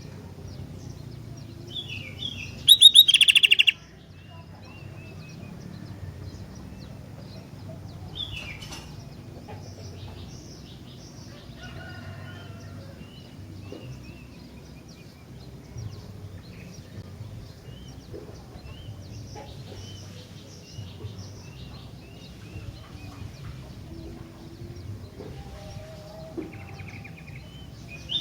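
Sooty-headed bulbul (kutilang) singing: scattered short chirps and whistles throughout, with a loud, fast rattling call about three seconds in, over steady low background noise.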